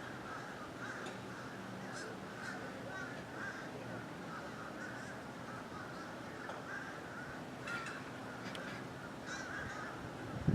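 A large flock of birds calling all at once: a steady, dense chatter of many overlapping calls, with a few sharper, higher chirps in the second half.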